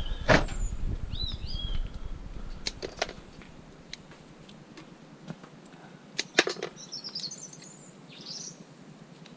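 Scrap metal being handled and worked apart by hand: a few sharp metal knocks and clinks, the loudest near the start and about six seconds in. Small birds chirp in between, and a low rumble stops about three and a half seconds in.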